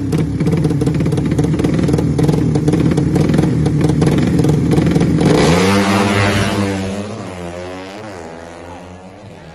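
Drag-race motorcycles revving hard with a clattering rasp. About five seconds in, the pitch climbs, dips and climbs again as they accelerate away down the strip, and the sound fades.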